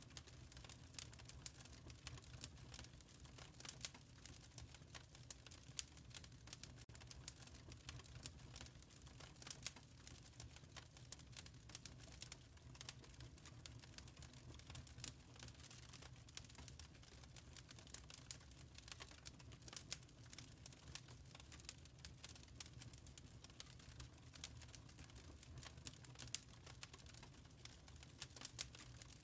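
Wood fire crackling in a fireplace: many small irregular pops and snaps over a soft, steady low rumble.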